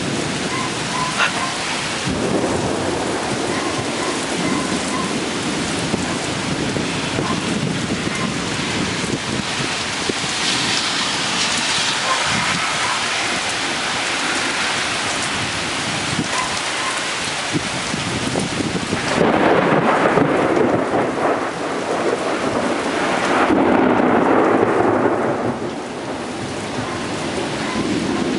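Heavy rain pouring down during a severe thunderstorm. Two louder rumbles of thunder roll in about two-thirds of the way through, one after the other.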